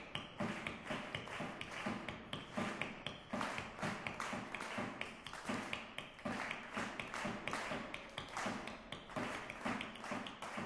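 Hand clapping: a dense run of quick, sharp, overlapping claps at an uneven rhythm.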